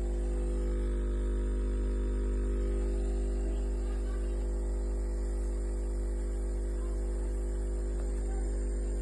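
Steady electrical hum, a low buzz with even overtones that holds unchanged throughout.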